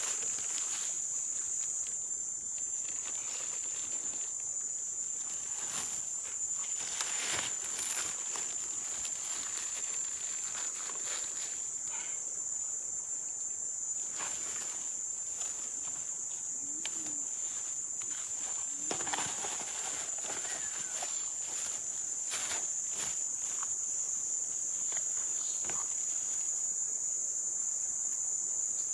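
Steady, high-pitched chorus of night insects, such as crickets or katydids, droning on one unbroken tone, with scattered clicks and rustles close by.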